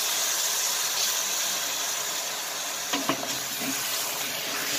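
Chicken pieces sizzling in hot oil in a large aluminium pot, with coconut water being added a little at a time. A wooden spoon knocks against the pot twice, close together, about three seconds in.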